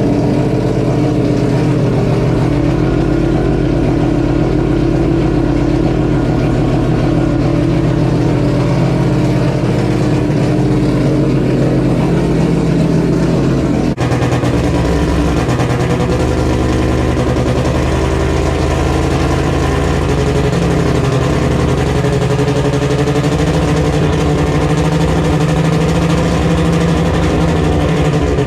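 Race car engine running loudly at a steady idle. About halfway through the sound changes abruptly to a deeper, rougher rumble.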